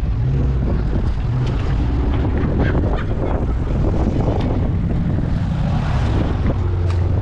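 Rumbling engines of classic American cars rolling past in a slow procession, their pitch shifting as cars come and go, with wind buffeting the microphone.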